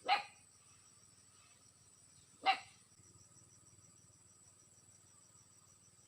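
A dog barking twice, single short barks about two and a half seconds apart, over the faint steady high chirring of crickets.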